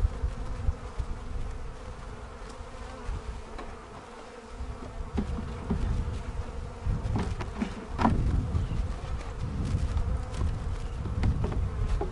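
Honey bees from a small swarm buzzing steadily around an open hive, stirred up ("ornery"). A few knocks about halfway through come as wooden frames are set into the hive box.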